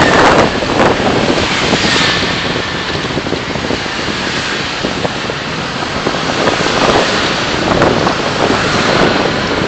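Steady road and wind noise of a car driving, with a few brief louder rushes.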